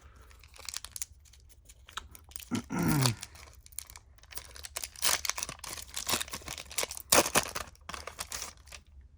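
Crinkling and tearing of a foil trading-card pack wrapper, with cards being handled, in irregular crackly bursts that are busiest in the second half. About three seconds in there is a brief low vocal sound that falls in pitch.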